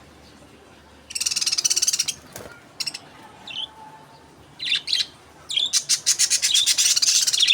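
Small pet parrots chattering in fast, high-pitched trilled chirps: a burst about a second in, a few short calls, then a long run of rapid chirping over the last two seconds.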